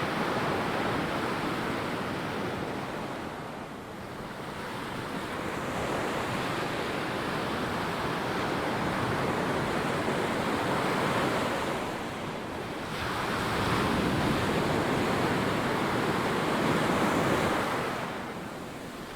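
Ocean surf breaking and washing up a sandy beach, swelling and easing with each set of waves, with three brief lulls. Some wind on the microphone.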